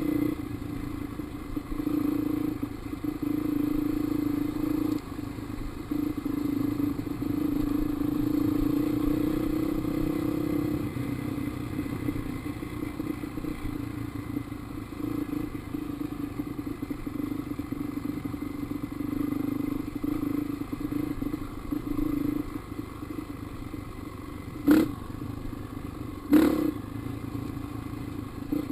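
Dirt bike engine running, its pitch and level swelling and easing with the throttle. Two sharp knocks come near the end, about a second and a half apart.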